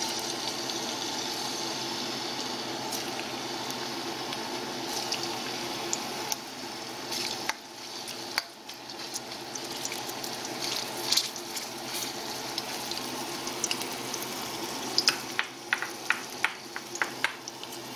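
Butter sizzling in a stainless steel pot, then sliced ginger frying in it, a steady hiss with scattered sharp crackles and spoon taps that come thick and fast near the end. A steady air-conditioner hum runs underneath.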